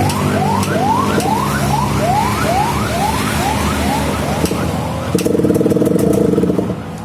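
Yamaha RX-King two-stroke single-cylinder engine running through a modified, hollowed-out silencer, revved harder for about a second and a half some five seconds in. For the first part a rising chirp repeats about three times a second over the engine.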